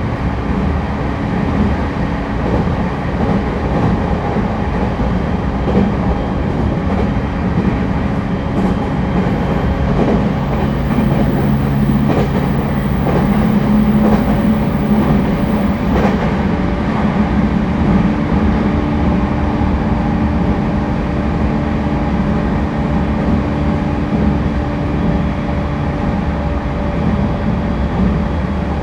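Cabin running sound of an E231-1000 series commuter train at speed: a steady rumble of wheels on rail with a low steady hum, swelling slightly in the middle, and a few faint clicks.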